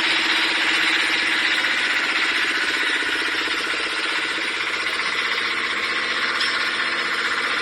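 Electric truck tyre changer's 3 kW motor and hydraulic pump running steadily, a continuous mechanical hum that eases slightly a few seconds in.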